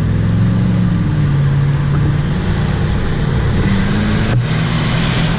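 Car engine and exhaust running under way. The engine note sags and then steps back up about four seconds in.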